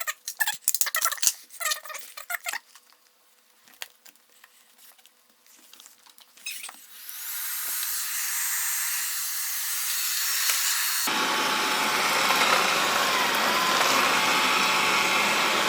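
Scattered clicks of a strip of magnetic tape being handled. Then a Xiaomi robot vacuum starts: a rising whir about seven seconds in, and at about eleven seconds its suction fan cuts in suddenly to a loud, steady rush.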